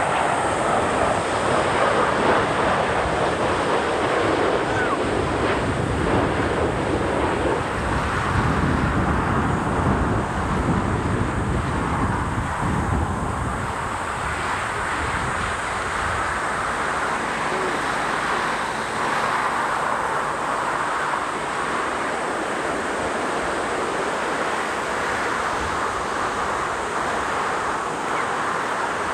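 Steady rushing roar of a jet airliner's engines near the runway, mixed with strong wind buffeting the microphone; the low rumble is heavier in the first half and eases after about fourteen seconds.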